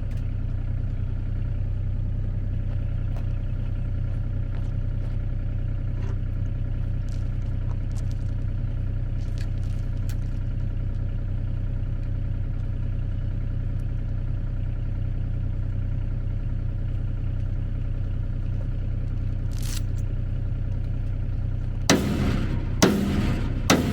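An engine idling steadily with a low, even hum, with a few sharp clanks near the end.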